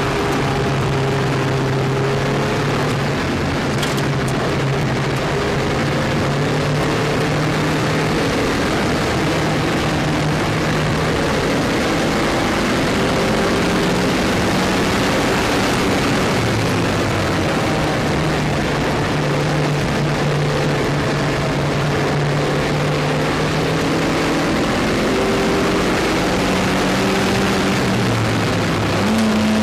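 Lotus Elise engine heard from inside the car at speed on a track, its note climbing and dropping again and again with gear changes and lifts, over a steady rush of wind and road noise.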